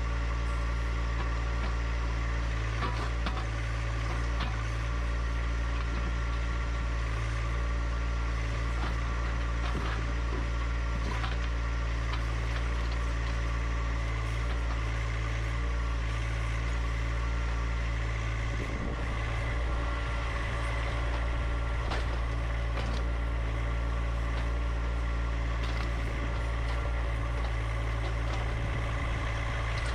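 John Deere 1025R compact tractor's three-cylinder diesel engine running steadily, with scattered short knocks and scrapes on top.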